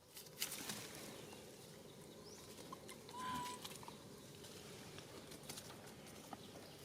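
Faint outdoor background with scattered light clicks and rustles, and one short, steady, high chirp about three seconds in.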